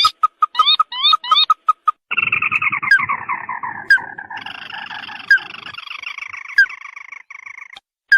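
Recorded crake lure calls: short repeated notes and up-sweeping calls at first, then from about two seconds in a long, fast trill that falls in pitch. A second, higher trill overlaps from about four seconds, with sharp clicks about once a second.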